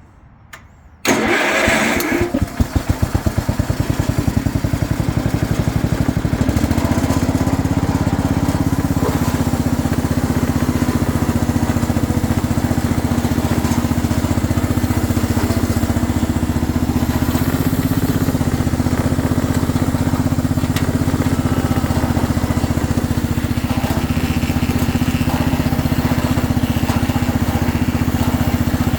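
The 1970 White 114 garden tractor's Kohler K321 14-horsepower single-cylinder engine starting about a second in, firing unevenly for a few seconds, then settling into a steady run at idle.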